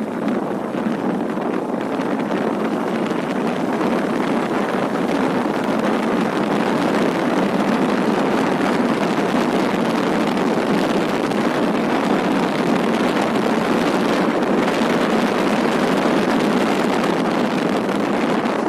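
Steady rush of wind buffeting the microphone on a moving motorcycle, with road noise underneath.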